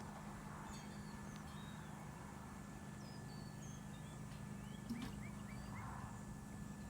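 Faint outdoor ambience: small birds chirping now and then, with a few quick notes about five seconds in, over a steady low hum.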